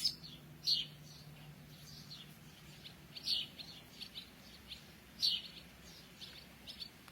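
Wild songbirds chirping in short, scattered notes at the start of the dawn chorus, over a faint steady hum.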